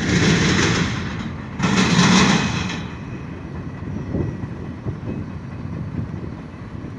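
CN intermodal freight train rolling past. Two loud surges of wheel-and-rail noise come in the first three seconds, then it settles to a lower rumble with a few faint knocks.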